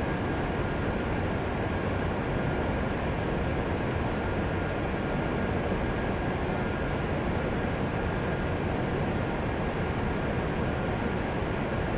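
Steady, even hum and hiss of an E7 series Shinkansen standing at the platform with its onboard equipment running, with a faint steady whine.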